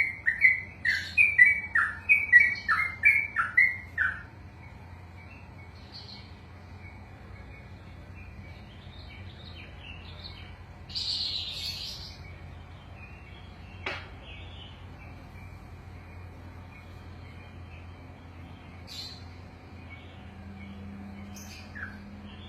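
Yellow-vented bulbul (trucukan) singing a fast run of loud, falling notes, about three a second, that stops about four seconds in. After that only scattered faint chirps, a brief hiss near the middle and one sharp click.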